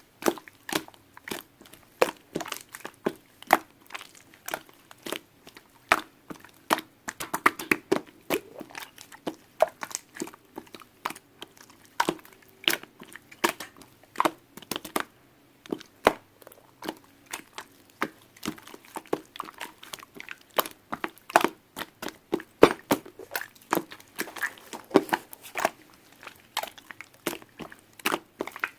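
Close-up crisp clicks and crackling crunches, several a second in irregular bunches, with short pauses between them.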